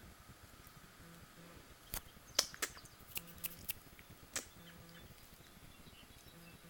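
A run of light, sharp taps, about eight of them spread over two and a half seconds, over a faint steady background.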